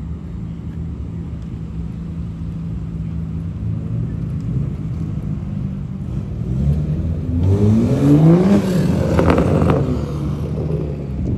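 A car engine running steadily, then revving up with a rising pitch about seven seconds in, loudest at its peak before easing off.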